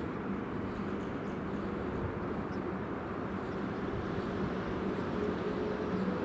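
Freight train hauled by a VL80S electric locomotive rolling past: a steady rumble with a faint low hum, growing slightly louder near the end.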